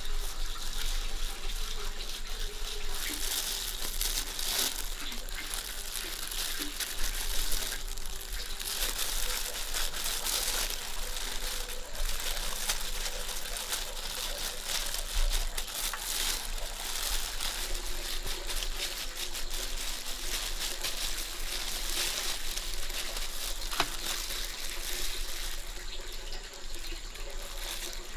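Steady watery hiss with some crinkling, swelling briefly louder now and then.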